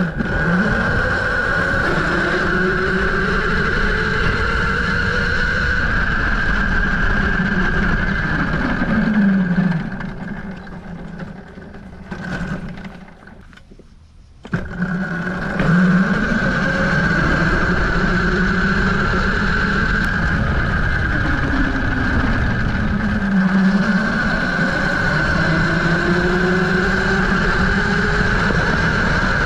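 Tuttio Soleil01 electric dirt bike being ridden at speed. Its motor whine climbs in pitch as it accelerates, falls away as the bike slows almost to a stop about halfway through, then climbs again. Under it runs a steady high whine, with wind rush throughout.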